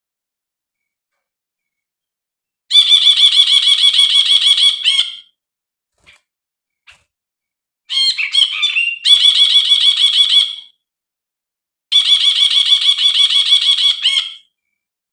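Brinji (a bulbul) singing three bouts of fast, evenly repeated chattering notes, each about two and a half seconds long, with silent pauses between. The second bout opens with a few varied, rising notes.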